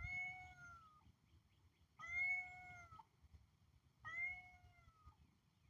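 Cat meowing three times, each drawn-out meow about a second long with a pitch that rises slightly and then falls, about two seconds apart.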